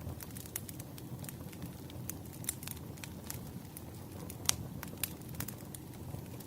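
Wood fire crackling: a soft steady low rumble with irregular sharp pops and snaps, the loudest pop about four and a half seconds in.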